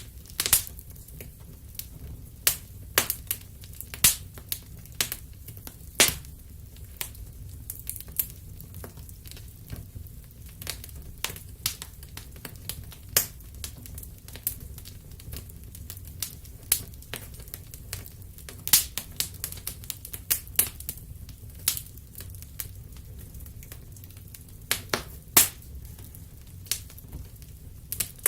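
Wood fire crackling in a fireplace: irregular sharp pops and snaps, some in quick clusters, over a steady low rumble.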